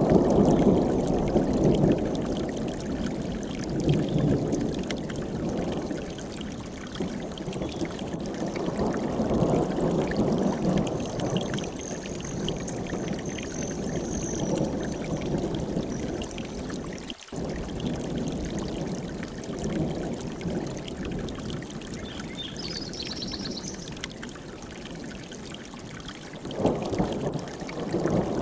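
Mountain stream rushing, a steady wash of water noise that swells and eases, with a brief dropout about two-thirds of the way through.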